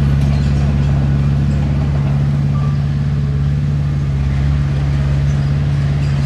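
Heavy earthmoving machine's diesel engine running at a steady speed, a loud, even low hum.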